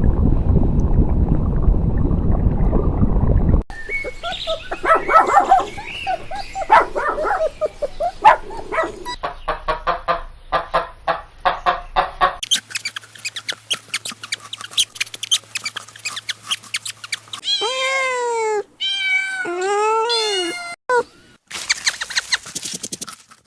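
A string of separate animal sounds cut one after another: a loud low rumble at first, then many short clicks and brief calls, and near the end a cat meowing several times, each meow rising and falling in pitch.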